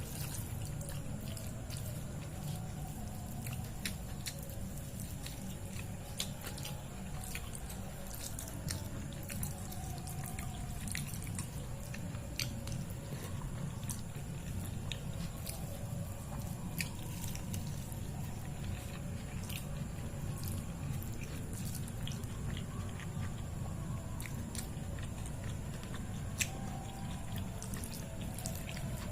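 Close-miked eating sounds: wet mouth clicks and smacks, scattered irregularly, from chewing soft food such as dal, rice and mashed potato. A steady low hum sits underneath.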